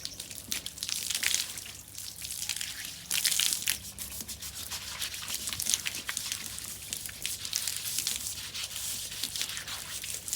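Hand scrubbing and wiping with water: rubbing strokes, small splashes and drips, with a louder hiss about three seconds in.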